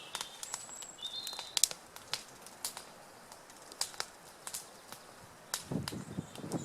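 Wood campfire crackling, with sharp irregular pops throughout. A few short high chirps sound about a second in, and a low rustle comes near the end.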